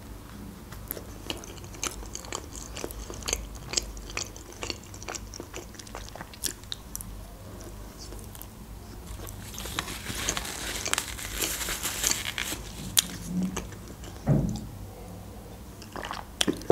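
Close-miked chewing of a bite of mini pizza: crisp crunching with small wet mouth clicks. The crunching grows denser and louder about ten seconds in.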